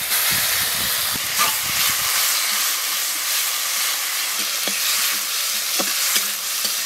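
Sliced onions and tomatoes sizzling in mustard oil in a kadai, with ginger-garlic paste just added, and a spatula stirring and now and then scraping against the pan.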